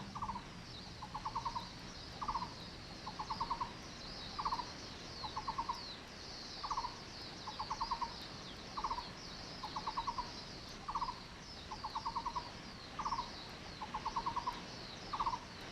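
Taiwan barbet calling: a single hollow note, then a quick run of about five or six notes, the pair repeating about every two seconds. Faint high chirping runs behind it.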